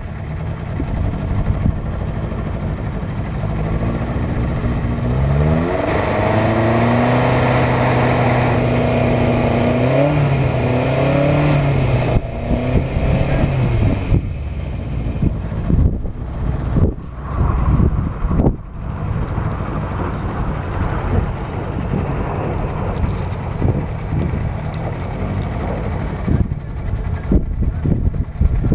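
Toyota Starlet rally car's engine revving hard: its pitch climbs about five seconds in and holds high with a brief dip, then gives way to a rougher, noisier rumble with irregular knocks.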